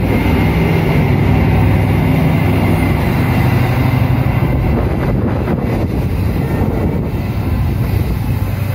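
Passenger train carriages rolling past at close range, a steady rumble of steel wheels on the rails with a short run of clicks over rail joints a little past the middle, easing slightly as the last carriage goes by and draws away.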